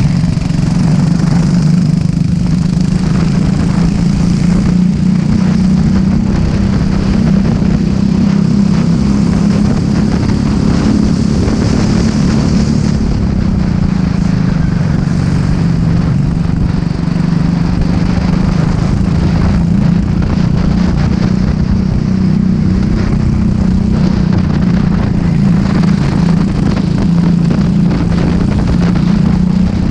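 Rental racing kart's engine running flat out on track, heard onboard as a steady loud drone whose pitch dips and recovers slightly through the corners.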